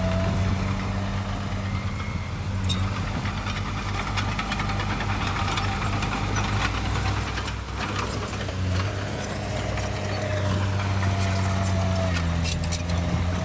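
Diesel engine of heavy earthmoving equipment running steadily with a deep hum, a high whine rising and then falling in pitch about ten seconds in.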